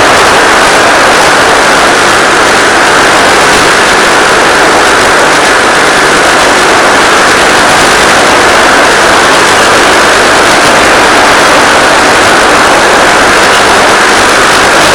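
Electric motor and propeller of a Finwing Penguin FPV plane in flight, a loud, steady, hissing drone with a low hum under it, as carried on the analog video link's audio.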